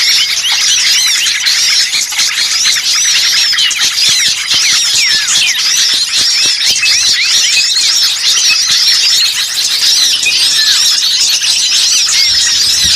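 Dense, agitated chorus of many small songbirds chattering at once, rapid high chirps overlapping without a break: a bird-lure recording of noisy small birds, used to call wild birds in.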